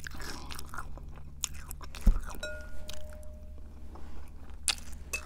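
A person chewing a mouthful of crunchy Cap'n Crunch cereal in milk, with irregular crackly crunches. About two seconds in there is a single loud low thump.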